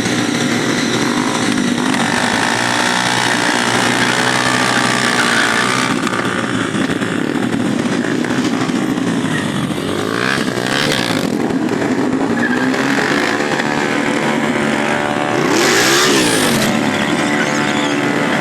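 Motorcycle engines running continuously, with pitch that rises and falls as they rev or pass. The loudest swell comes near the end.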